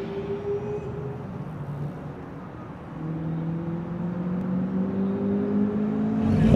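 A car engine running, its pitch and loudness climbing slowly from about three seconds in as it gains revs.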